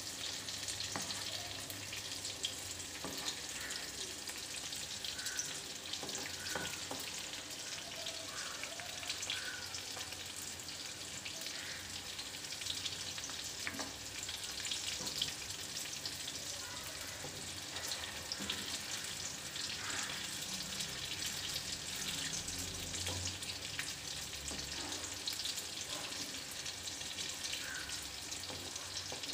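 Batter-coated mushroom pieces frying in hot oil, a steady sizzle dotted with small crackling pops, while a metal skimmer turns them now and then.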